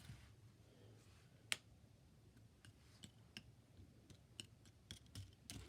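Near silence with faint, scattered clicks and taps from small items being handled, and one sharper click about a second and a half in.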